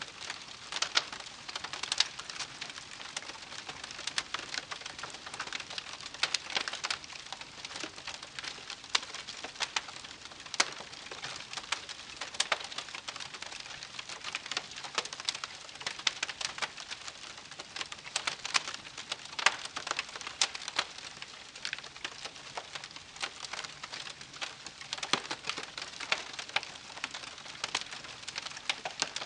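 Wood campfire crackling: a steady soft hiss with frequent, irregular sharp pops and snaps.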